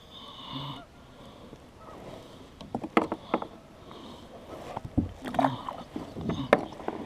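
Sharp knocks and clatter in a small fishing boat, loudest about three seconds in and again around five and six and a half seconds.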